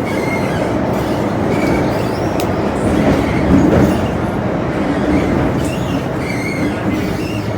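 Metro-Cammell M-Train electric multiple unit heard from inside the car, running on the track with a steady rumble and a few faint, brief wheel squeals.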